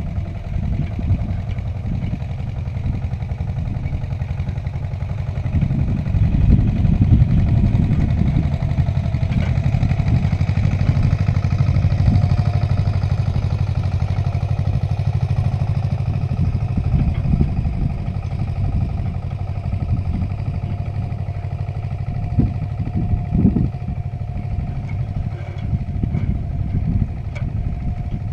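Agria 8900 articulated tractor's engine running steadily under load while towing a disc harrow, with a few knocks and a light clatter. It grows louder for several seconds starting about six seconds in.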